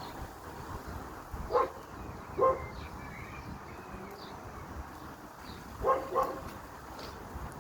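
A dog barking four times, in two pairs: one pair about a second and a half in, the other near the end.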